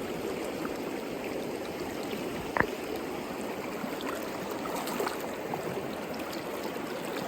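Stream water running steadily, with one short sharp click about two and a half seconds in.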